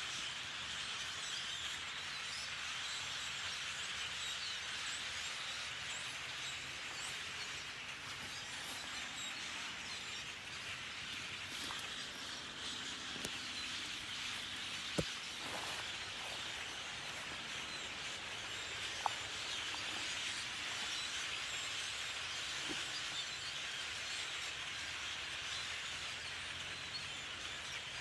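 A large flock of perched migrating birds, close to a thousand, calling all at once as a continuous dense chatter. Two short clicks stand out in the second half.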